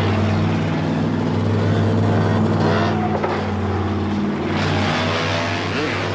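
Car and motorcycle engines running through a precision-driving stunt routine: a steady low engine drone, with brief shifts in pitch about four to five seconds in.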